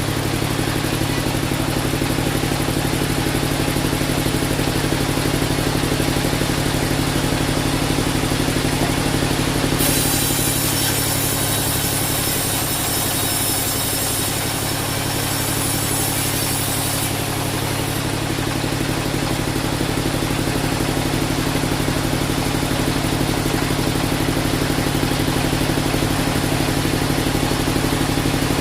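Band sawmill running steadily with a constant machine hum. For several seconds in the middle a brighter, higher hiss joins in.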